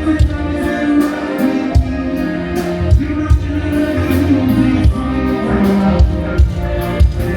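Band music with singing over a steady drum beat, played through the PA during a sound check.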